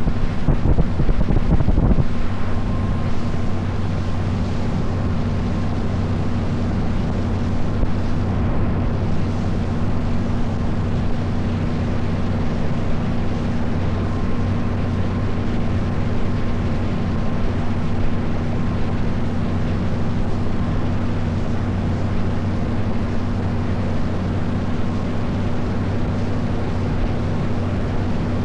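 Motor boat's engine running at a steady pitch under wind noise on the microphone. The wind buffets harder for the first two seconds.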